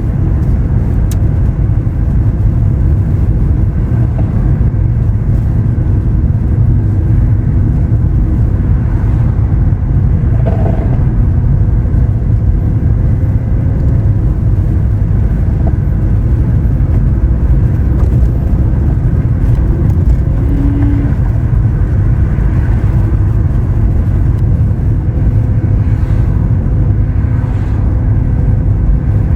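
Lamborghini Aventador SV Roadster's V12 running at a steady cruise: a loud, even, deep rumble with faint steady engine tones above it and no sharp revving.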